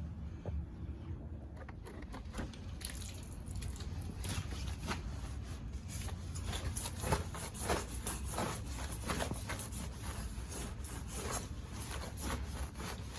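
Scrub brush working soapy water over a car tire, a run of irregular scrubbing strokes that thickens after the first couple of seconds, over a low steady rumble.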